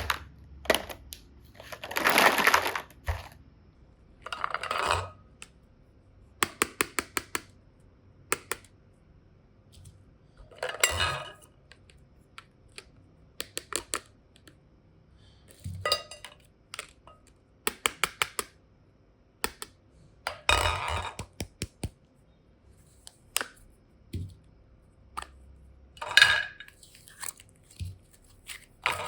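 Hands handling hard plastic boxes and small toys. There are runs of sharp clicks and taps, with about six longer, louder scraping, rustling bursts of about a second each.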